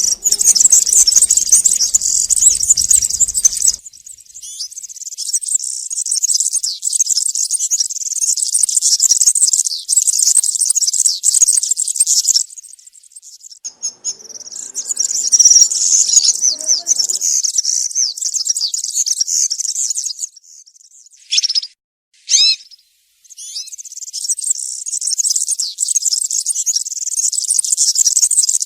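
European serin singing its rapid, high, jingling wild-type field song in long unbroken phrases. There is a short break about halfway through, and two brief falling notes follow before the song picks up again.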